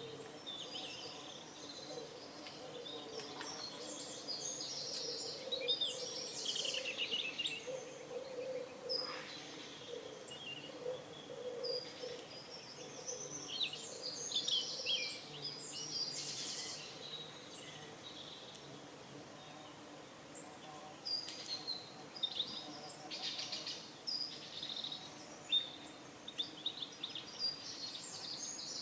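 Small birds chirping and twittering in many short, overlapping calls and trills, over a faint steady low background hum.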